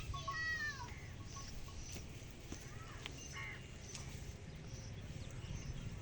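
Birds calling outdoors: a few short calls that bend in pitch, near the start and again about three seconds in, over a steady low rumble.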